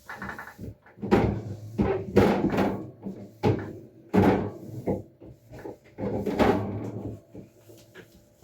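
Refrigerator shelves, drawers and containers being handled and set down: an irregular run of knocks, rattles and scrapes.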